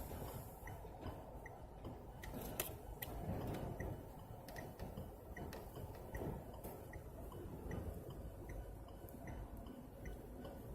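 Vehicle indicator flasher ticking evenly, about once every three-quarters of a second, heard inside the cab over a steady low rumble of high wind buffeting the stopped vehicle. A few sharp clicks come about two and a half to three seconds in.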